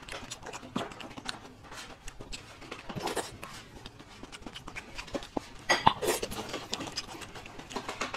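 Close-miked chewing and wet mouth sounds of someone eating raw salmon slices, a run of small irregular smacks and clicks with a louder cluster about six seconds in.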